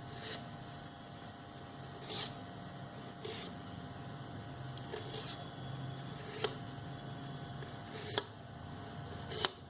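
Pencil marking on paper and card, with the paper strips handled: faint scratching and a few light taps and clicks over a steady background hum.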